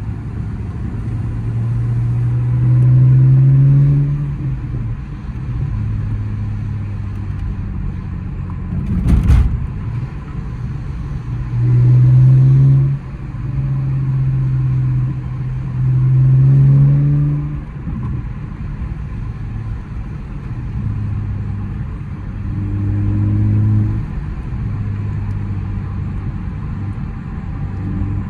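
BMW E82's N52 inline-six running through a muffler-deleted exhaust, heard from inside the moving car. It drones steadily and swells louder and higher in pitch in about four short pulls under acceleration. A single sharp knock comes about nine seconds in.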